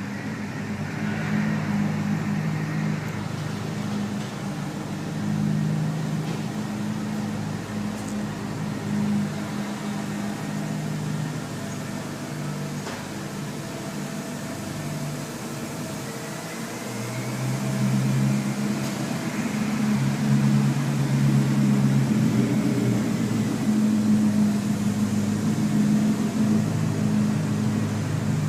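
BMW car engine idling with a steady low hum that wavers slightly, growing a little louder about two-thirds of the way through.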